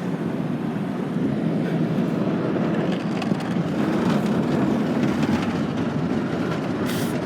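Automatic car wash tunnel brushes scrubbing and slapping against the car body, heard from inside the car as a dense, steady rattling rumble. A brief hiss comes near the end.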